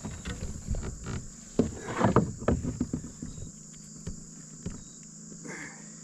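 Largemouth-type bass thrashing in a kayak after being landed, its flopping and the handling making a rapid flurry of knocks and thumps against the plastic hull, loudest about two seconds in and settling after three. A steady high insect drone runs underneath.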